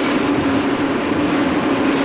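Train running on rails: a steady rumbling rush with a steady low drone under it.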